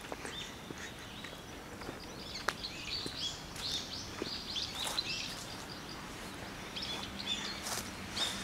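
Small birds chirping, many short high calls in quick succession, busiest in the middle of the stretch, over faint outdoor background noise, with a few sharp clicks.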